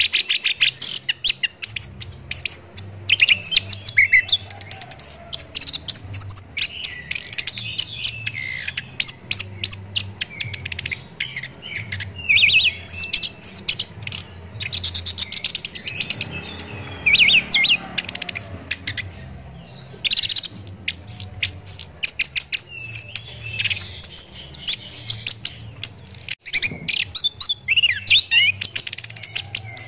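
Chestnut-capped thrush (anis kembang) singing a fast, varied song of chirps, trills and whistles almost without a break, with a short pause about two-thirds of the way through.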